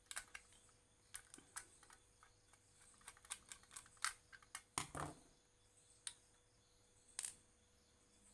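Irregular light clicks and taps of small parts and tools being handled during repair work, with one duller, heavier knock about five seconds in. A faint steady hum sits underneath.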